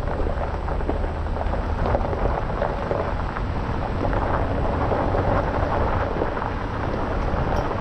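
Jeep Gladiator driving on a rough backroad: tyre and road noise over a steady low rumble, with a dense fine crackle.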